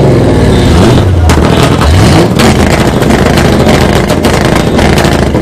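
Car engine being revved loudly: the pitch falls away from a rev at the start, climbs sharply in a quick blip about two seconds in, then drops back to a choppy, rumbling idle.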